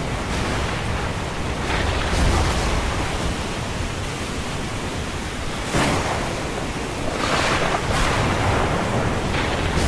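Ocean surf with storm noise: a steady wash, with waves surging and breaking about six seconds in and again a little later.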